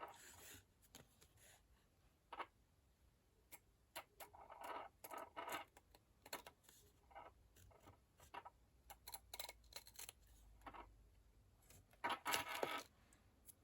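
Quiet paper-craft handling: faint scattered taps, clicks and brief rustles of cardstock pieces being handled and placed, a little busier about a third of the way in and again near the end.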